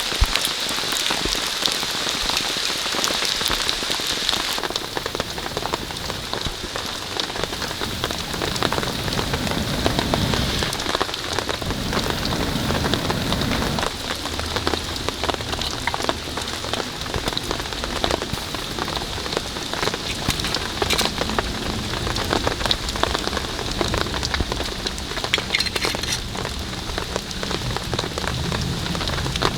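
Steady rain falling, with many separate drop hits. A low rumble comes in for a few seconds near the middle.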